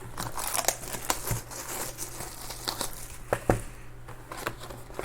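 Packaging crinkling and tearing as a sealed box of trading cards is opened, with a couple of soft knocks about a second and a half and three and a half seconds in.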